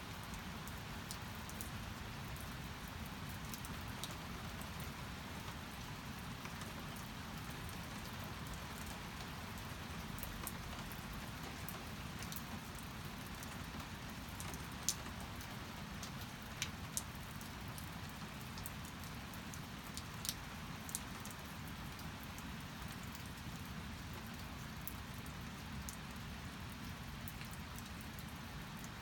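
Steady rain, with scattered sharp drops ticking every few seconds.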